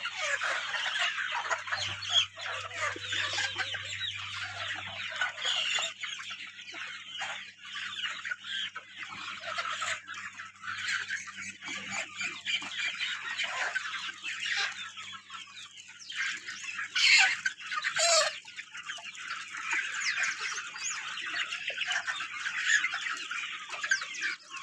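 A flock of Kadaknath chickens clucking and calling all at once in a dense, continuous chatter, with two louder calls about two-thirds of the way through. A faint steady low hum runs underneath.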